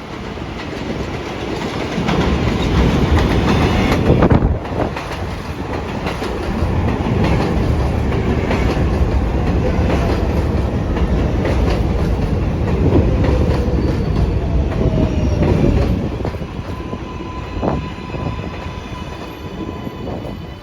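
R188 subway train running along the elevated IRT Flushing Line track, wheels clattering over the rail joints. It grows louder about two seconds in and eases after the middle as the train slows. A faint motor whine falls in pitch as it brakes.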